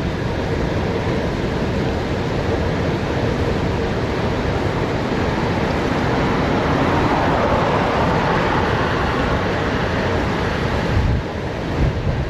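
Wind rushing over the microphone of a bicycle coasting fast downhill, a steady noisy rush with heavy low buffeting. It swells louder for a few seconds in the middle, then drops briefly near the end.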